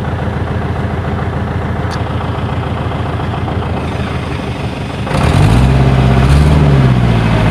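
Truck engine idling steadily, then revving about five seconds in: it grows louder and its pitch rises and falls.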